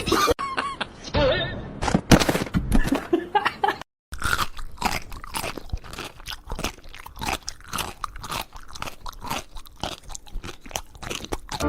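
Crunchy chewing, an animal eating something hard and crunchy, at about four crunches a second, starting after a short break about four seconds in.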